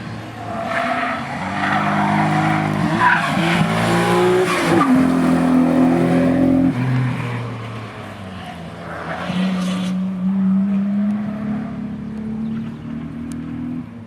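Nissan Skyline R34 GT-R V-Spec's twin-turbo RB26DETT straight-six being driven hard on track, its revs climbing and dropping through gear changes, loudest in the first half and easing off before building again. The engine is running with a misfire.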